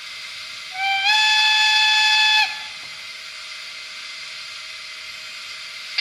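Model steam-locomotive whistle from the sound decoder of an MTH HO DR class 18: one blast about two seconds long that slides up slightly at its start and then holds steady, over a steady steam hiss. A short click comes at the very end.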